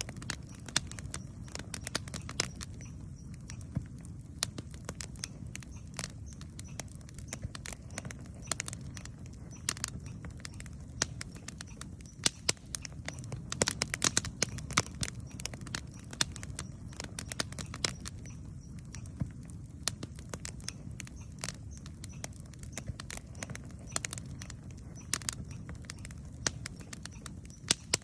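Campfire burning with frequent irregular crackles and pops over a steady low rumble of flame.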